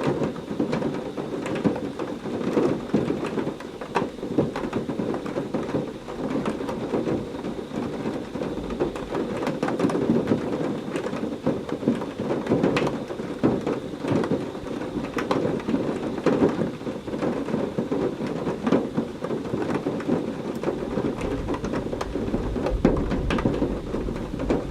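Heavy rain pouring steadily, spattering and crackling on surfaces, with thunder rumbling; a deep roll of thunder builds near the end.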